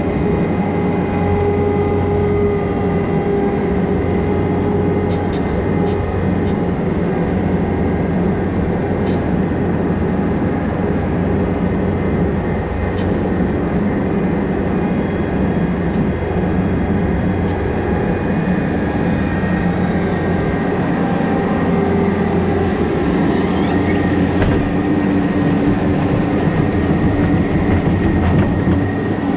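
An old feed mixer and its feed conveyor running steadily with a constant mechanical hum and a few light clicks and rattles, while silage is mixed.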